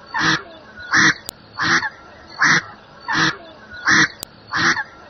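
Indian spot-billed duck quacking: a steady series of short quacks, about one every three-quarters of a second.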